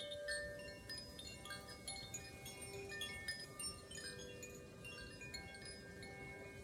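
Wind chimes ringing: many clear notes at different pitches, struck irregularly and overlapping, each ringing on briefly.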